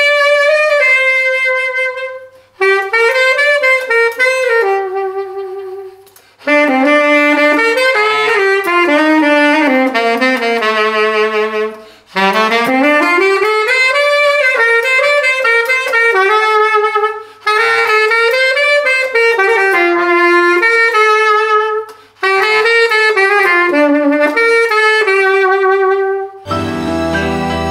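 Unaccompanied saxophone, a Czechoslovak Amati Super Classic, playing a slow melody in phrases with short breaks between them. Near the end the playing gives way to different music.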